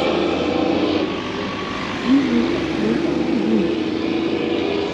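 Street traffic: a vehicle passing close by with steady road and engine noise, and a brief louder sound about two seconds in.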